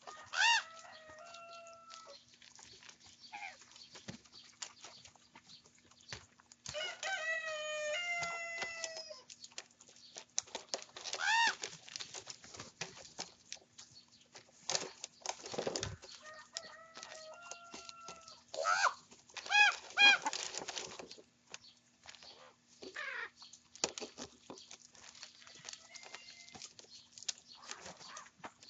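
Young ravens calling as they squabble over food: bouts of harsh, pitched calls that rise and fall, including a longer run of descending calls about seven seconds in, with many short sharp clicks between the calls.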